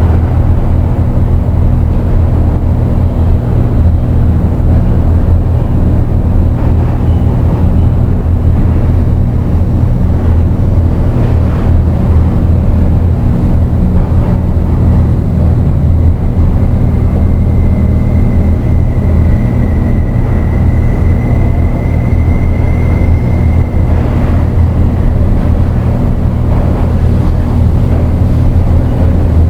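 Dark ambient electronic drone music: a loud, steady low drone under a rough noisy texture, with a thin high tone coming in a little past halfway and stopping several seconds later.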